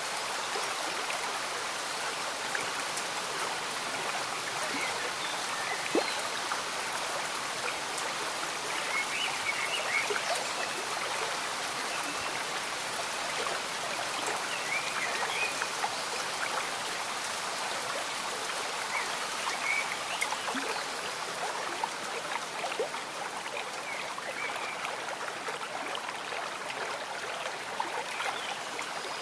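Slow-moving stream bubbling steadily, with gentle rain falling. Small gurgles and single drips stand out now and then over the even rush of water.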